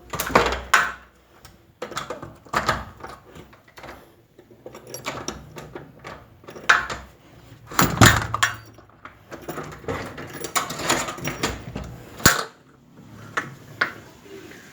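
Irregular knocks and clatter of hard objects being handled or bumped, a dozen or so sharp hits with the loudest about eight seconds in.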